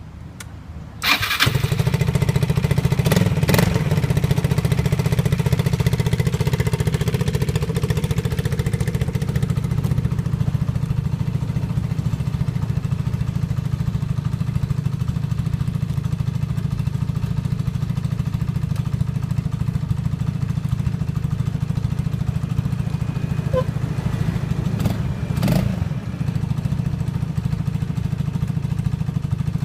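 Yamaha Maxster scooter engine starting about a second in, catching at once and then idling steadily. There is a brief louder moment near the end.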